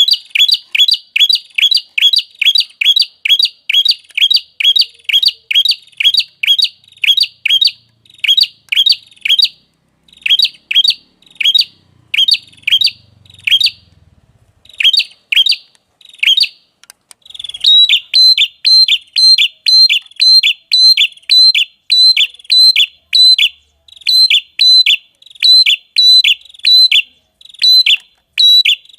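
A small songbird repeating a short, sharp, high call, about three notes a second, with a couple of brief pauses; a little over halfway through the notes turn brighter and shriller.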